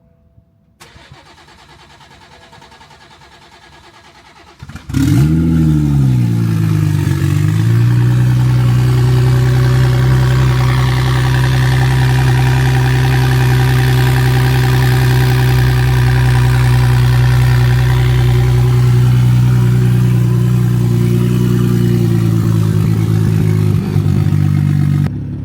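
BMW engine cold-started after sitting since last year: a faint hum from about a second in, then at about five seconds it cranks and catches, the revs flare up and settle within a few seconds into a steady fast cold idle. Near the end the sound drops off suddenly.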